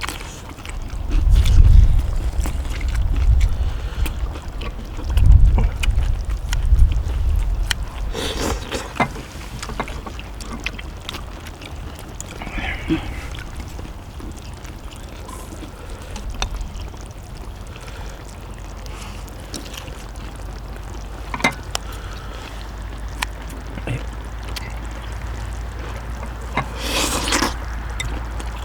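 Wind buffeting the microphone in heavy low gusts, twice in the first eight seconds, then a steady low rumble. Scattered light clicks and taps of eating utensils run throughout.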